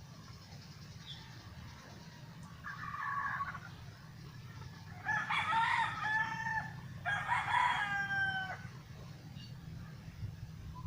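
Rooster crowing twice, each crow about a second and a half long, after a shorter call about three seconds in, over a steady low hum.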